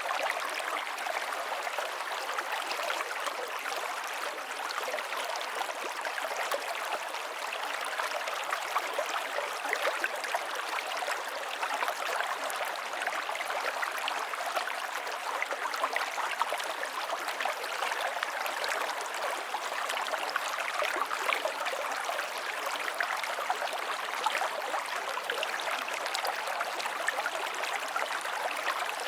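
A river flowing over rocks: a steady rush of water with fine splashing and burbling.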